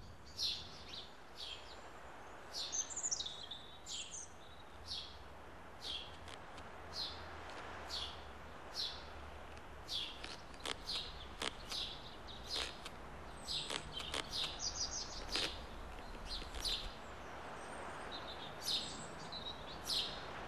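Birds chirping: short high chirps repeating roughly once a second over a faint steady low background hum.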